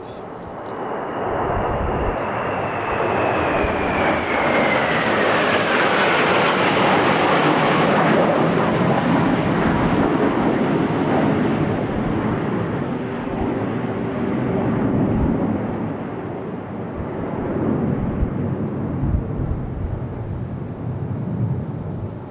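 Kawasaki T-4 jet with twin F3 turbofans flying past: its roar swells over several seconds while a whine slides down in pitch as it passes, then slowly fades, swelling briefly once more near the end.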